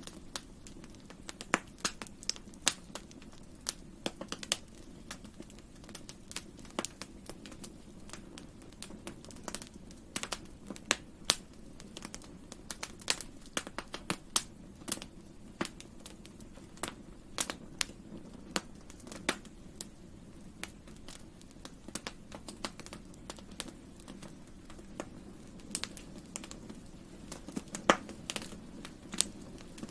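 Wood fire crackling, with many sharp irregular pops and snaps over a steady low rumble of burning.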